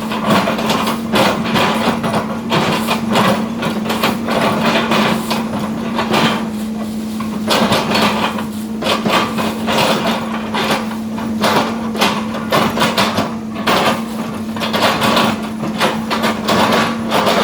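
Excavator engine running with a steady drone, under many irregular knocks, cracks and crunches of wood as palm oil tree trunks are chopped up.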